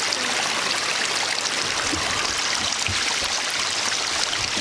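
Water rushing steadily down a newly built garden pond waterfall and splashing into the pond, with a few low thuds on the microphone, possibly wind, a few seconds in.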